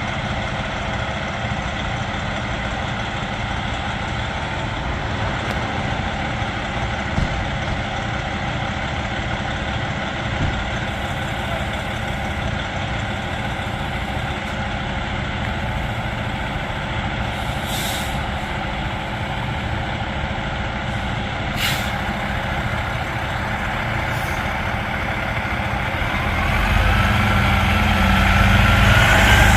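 Fire apparatus diesel engines idling steadily, with two short air-brake hisses about two-thirds of the way through. Near the end the engines get louder and a rising whine comes in as the rigs get under way.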